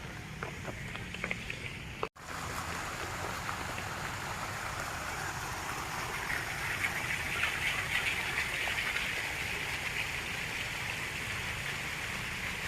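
Steady rushing noise like running water, with a few sharp clicks before a brief dropout about two seconds in; the rushing grows louder in the middle.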